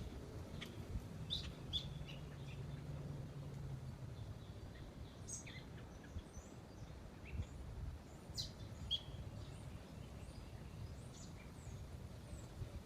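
Small wild birds chirping in short, scattered calls over a steady outdoor background, with a faint low hum in the first few seconds.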